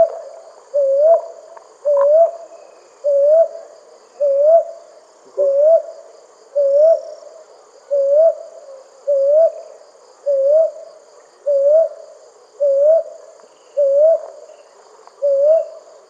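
Brown hawk owl calling: a long steady series of short, rising 'whoo-up' hoots, about one a second, with crickets trilling softly underneath.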